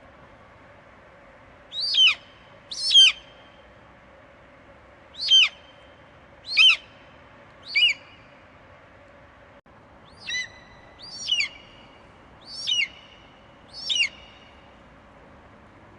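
Eagle screeching: a series of nine short, high calls, each sliding down in pitch. Five come in the first eight seconds, then a pause, then four more between about ten and fourteen seconds in, over a faint steady hiss.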